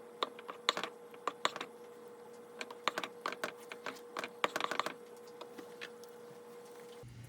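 Quick, irregular light clicks and taps in small clusters over a faint steady hum, changing abruptly about seven seconds in.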